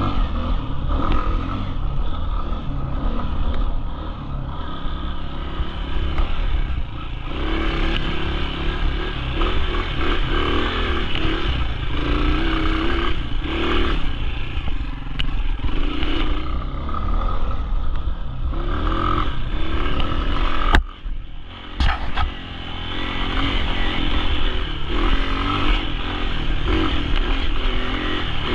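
Dirt bike engine revving up and down under load on a hillclimb, with rattling and scraping. About 21 seconds in there is a sharp click and the engine falls away briefly before picking up again.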